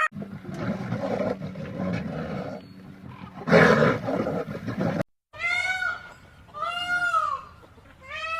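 A rough, growling animal roar, loudest about three and a half seconds in. After a brief break come three drawn-out animal calls, each rising and then falling in pitch, about a second apart.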